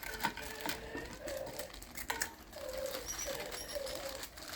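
A bird calling: a series of short, low, steady notes, with light clicks and taps around them.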